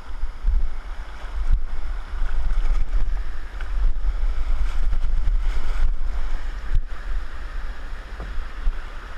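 Wind buffeting an action camera's microphone in a heavy, fluttering rumble over a steady rush of water, with a few short knocks.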